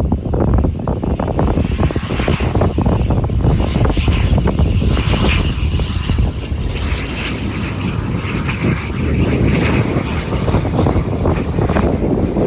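ATR 72-600 twin turboprop running, its propeller and engine noise swelling through the middle, mixed with heavy, gusty wind rumble on the microphone.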